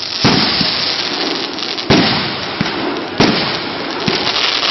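Fireworks going off: three loud bangs about a second and a half apart, with continuous crackling and small pops in between.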